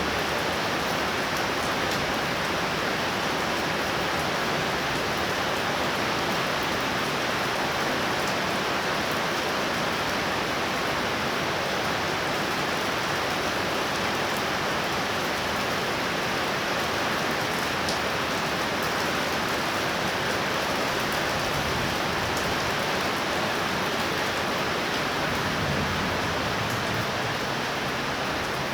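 Heavy rain falling steadily: a dense, even hiss of downpour with faint scattered drop ticks.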